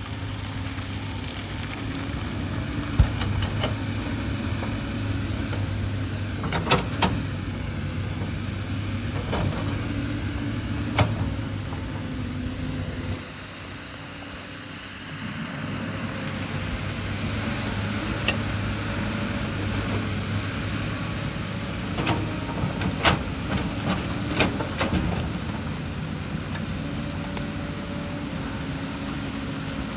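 Hyundai excavator's diesel engine running steadily, with sharp knocks several times, clustered about a quarter of the way in and again past two thirds. The engine drops quieter for a couple of seconds a little before halfway.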